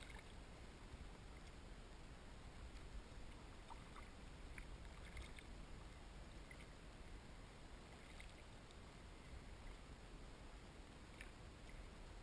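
Faint water sounds from a kayak on calm water: a low hiss with a few small scattered drips and splashes.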